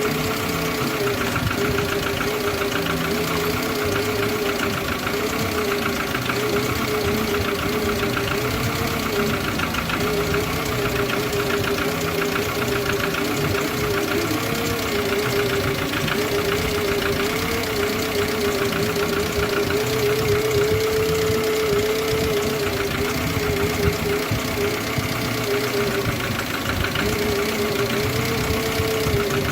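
Car engine idling roughly and unevenly because it is firing on only three cylinders: one cylinder is dead from a broken ignition coil wire.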